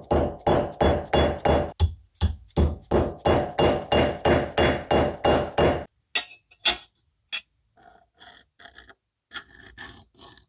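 Hammer striking metal in a steady rhythm, about three ringing blows a second, which stops about six seconds in. Lighter scattered taps and scraping of metal follow.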